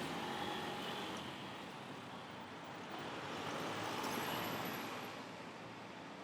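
Road traffic on a city street: a passing vehicle's noise swells to its loudest about four seconds in, then fades.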